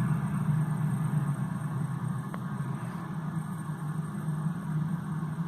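A steady low engine rumble, idling.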